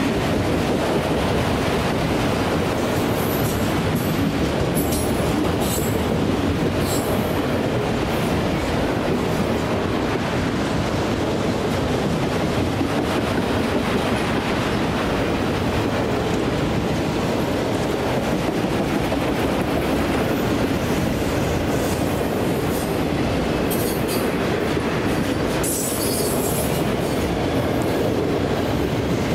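Freight train of autorack cars rolling past at speed: a steady rumble and clatter of steel wheels on the rails, with a few brief high-pitched squeals early on and again near the end.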